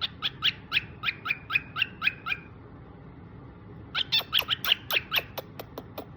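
Pet cockatiel chirping in two quick runs of short, sharp repeated calls, about four a second, with a pause of a second and a half between the runs.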